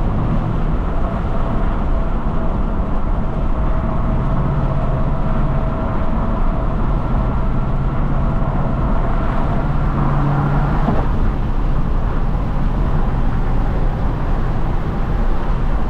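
Engine and road noise heard inside a Ford Mustang's cabin while driving: a steady low drone, with the engine note shifting slightly now and then.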